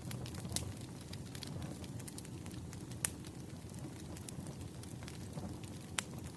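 Firewood burning with a steady low rumble and scattered sharp crackles and pops, the loudest about three seconds in and again near the end.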